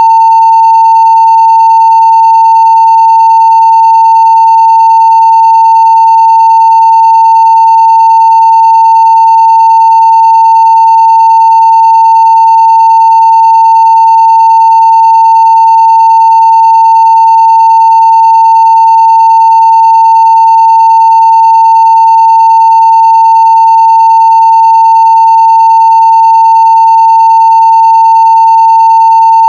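Steady 900 Hz sine-wave test tone played at full scale (0 dB), one unbroken loud pitch that does not change.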